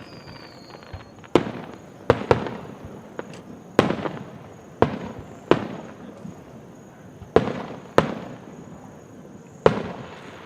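Fireworks show: aerial shells bursting one after another, about nine sharp bangs at irregular gaps of half a second to two seconds, each trailing off in a fading echo.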